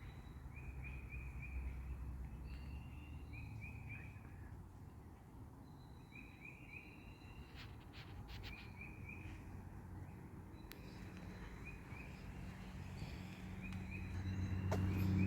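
A songbird singing a short phrase of three or four quick high notes, repeated every couple of seconds, over a low outdoor rumble. Near the end a low engine hum grows louder.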